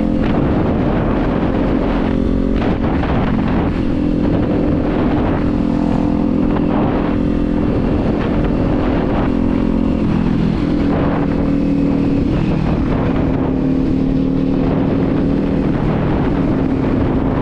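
Kawasaki Z400 parallel-twin engine running steadily at cruising speed, heard from the bike with wind noise rumbling on the microphone. The engine note dips a little about ten seconds in, then holds.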